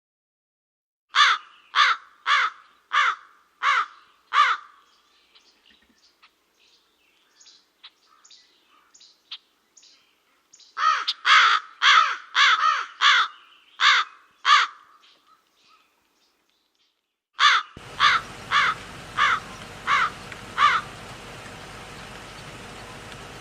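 A bird giving bouts of loud, harsh calls, repeated about one and a half times a second, each call falling in pitch. There are three bouts of six to nine calls, with fainter calls between the first two. A steady background hiss comes in abruptly with the last bout, as from a different recording.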